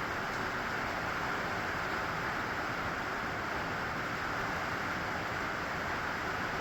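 Steady rain sound used as white noise: an even, unbroken hiss with no single drops or other sounds standing out.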